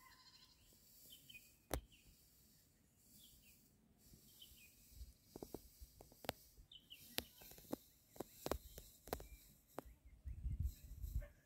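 Quiet open-field ambience with faint, short bird chirps and a scattering of sharp clicks, most of them in the second half. A low rumble rises near the end.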